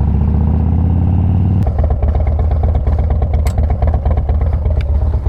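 Motorcycle engine idling steadily; about a second and a half in, its note changes abruptly and a few sharp clicks follow.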